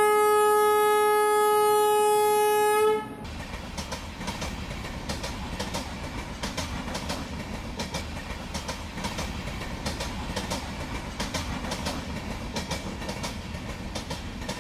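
Train horn sounding one long steady blast that cuts off about three seconds in, followed by the train running with a steady clickety-clack of wheels over rail joints.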